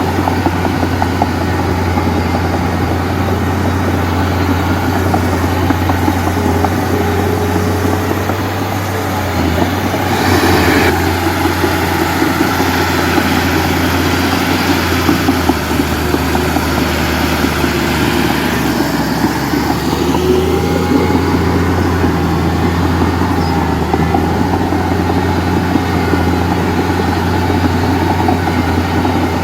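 Heavy diesel machinery engine running steadily with a deep, even hum, and a brief burst of noise about ten seconds in.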